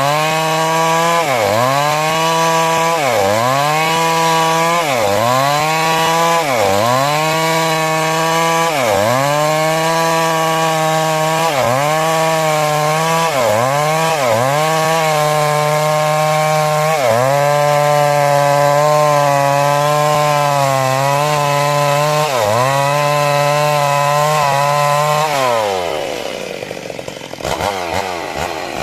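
Chainsaw cutting timber under load, its engine pitch dipping and recovering about once a second as the chain bites into the wood, then holding steady for several seconds. Near the end the engine drops off to a low idle and then revs back up.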